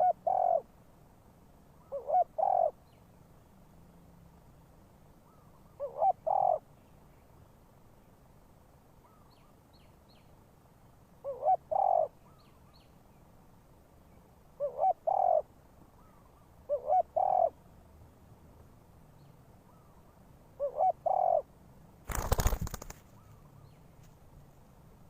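Decoy spotted dove cooing: seven short two-note coo phrases, a few seconds apart. Near the end comes a brief noisy flutter like wings flapping.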